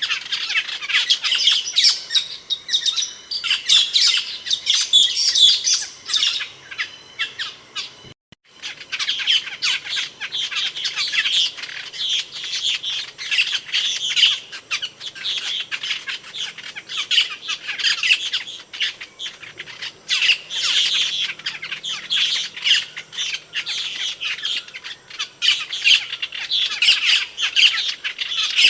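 Asian glossy starling calling: a dense, unbroken run of sharp, high chirps and squawks, cut by a brief silent gap about eight seconds in.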